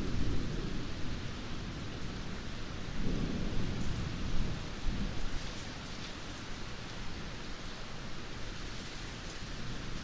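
Steady rain falling, with low rolling thunder rumbles swelling near the start and again about three seconds in, then easing off.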